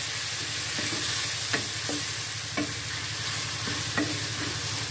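Ground spice paste sizzling as it fries in hot oil in a wok. A spatula stirs it, scraping and knocking against the pan several times.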